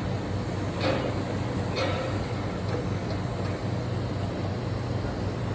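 Steady mechanical hum of running machinery, with low, even tones and no change in pace.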